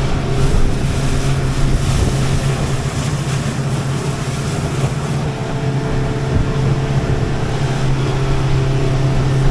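Outboard motor of a C-Dory 22 boat running steadily under way, with wind and water rushing past the hull.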